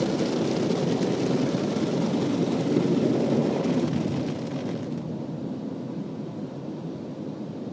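Automatic car wash machinery and water spray making a steady rushing noise. It slowly fades, and the hiss thins out about five seconds in.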